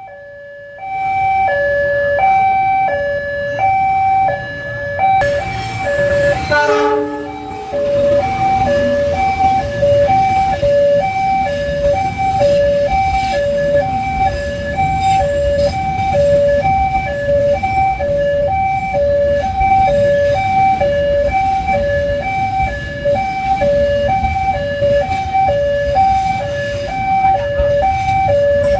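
Battery-powered toy's electronic two-tone hi-lo siren, alternating steadily between a higher and a lower beep about once a second, over the rumble of the toy's motor and wheels. About six seconds in, the siren breaks off briefly for a quick falling run of tones, then starts again.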